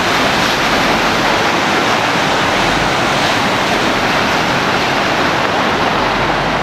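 Floodwater rushing across the road: a loud, steady wash of noise.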